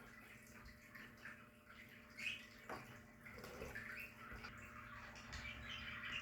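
Budgerigars in a colony aviary chattering faintly, with scattered soft chirps and warbles and a few clicks over a low steady hum.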